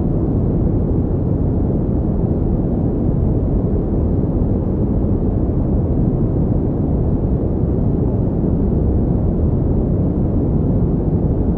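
Steady pink noise: an even, unchanging rush with most of its weight in the low end and little hiss at the top.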